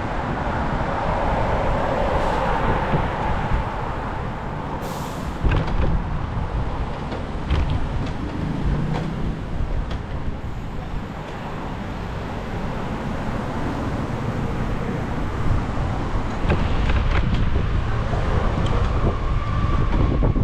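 Road traffic heard from a moving bicycle: a steady rumble of engines and tyres with a heavy vehicle nearby, and a short sharp hiss about five seconds in.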